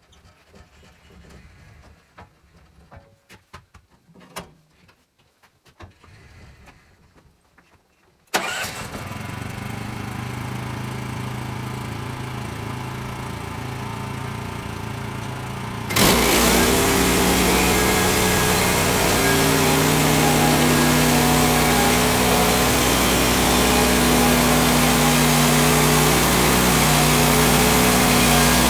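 Woodland Mills HM130 sawmill's gasoline engine starting abruptly after a few faint clicks, then running steadily at idle. About halfway through it is throttled up sharply and holds at high speed, bringing the saw up to cutting speed.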